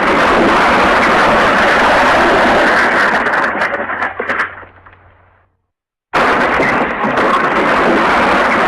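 MGM 'Elephant Smash' stock sound effect: a loud, dense crashing smash that breaks up and dies away about four to five seconds in. After a brief gap of silence it starts again abruptly as the effect repeats.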